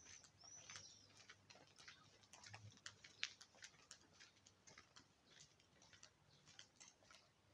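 Near silence with faint, irregular ticking clicks, and a single high bird chirp about a second in.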